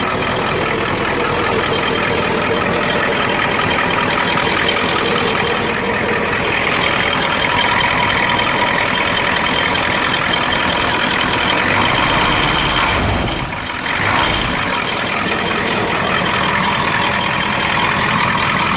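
The 7.3-litre diesel V8 of an old pickup idling steadily. The owner puts the engine's poor running down to low compression, and it shows heavy blow-by.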